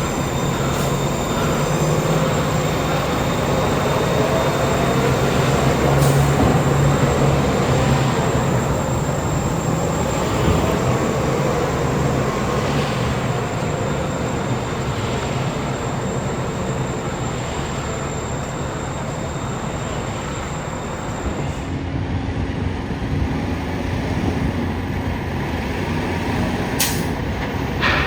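Heavy diesel truck engines running steadily, as concrete mixer trucks work, with a low engine hum under a wash of mechanical noise. The sound changes abruptly about two-thirds of the way through, as one truck's sound gives way to another's. A sharp click comes near the end.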